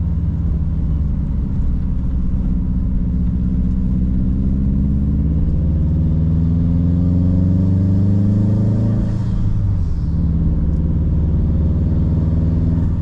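Turbocharged car engine heard from inside the cabin, pulling uphill with the revs rising slowly for several seconds. The revs drop sharply about two-thirds of the way through, then hold steady.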